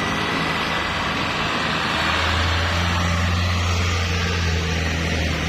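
Heavy truck's diesel engine running close by, a steady low drone that grows stronger about two seconds in as the truck draws nearer, with road and tyre noise.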